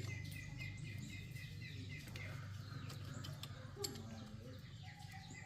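Small birds chirping in quick repeated notes over a steady low hum, with a few faint clicks.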